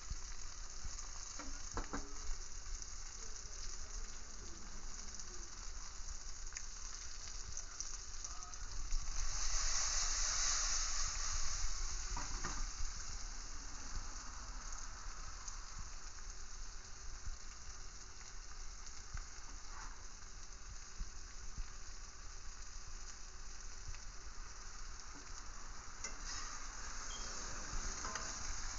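Crinkle-cut fries, oyster mushrooms and green peppers sizzling in hot oil in a frying pan: a steady hiss that grows louder for a few seconds about nine seconds in, with a few faint clicks.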